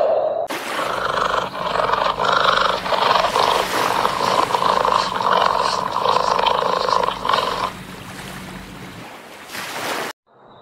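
Big cat growling and roaring in one long, sustained stretch. It starts abruptly about half a second in, eases off for the last couple of seconds and cuts off sharply near the end.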